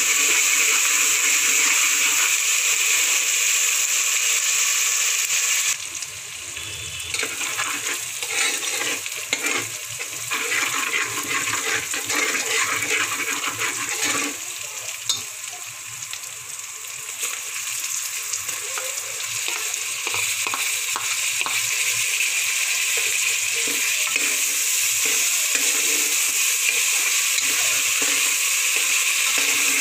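Chopped onions sizzling in hot sunflower oil in an aluminium pressure cooker, stirred with a metal spatula scraping the pot. About six seconds in the sizzle drops and quick scraping strokes stand out for several seconds, then the sizzle builds back up and runs steadily.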